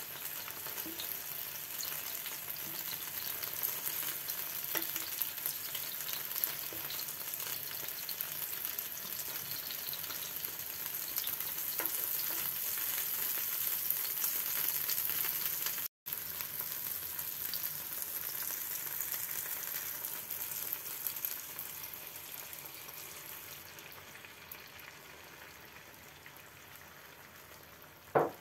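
Hot olive oil sizzling in a frying pan as tomato slices fry, with small scattered pops, then beaten egg frying. The sizzle grows quieter in the second half, and a single sharp knock comes near the end.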